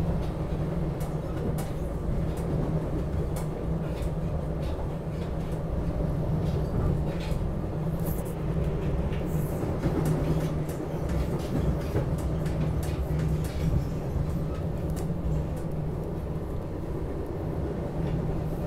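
Inside a SEPTA Regional Rail commuter train car: a steady low rumble with a constant hum, and scattered light clicks and rattles.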